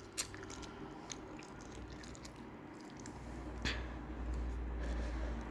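Close-up eating sounds: quiet chewing with scattered faint clicks and a sharper tap about three and a half seconds in. A low rumble sets in a little past halfway.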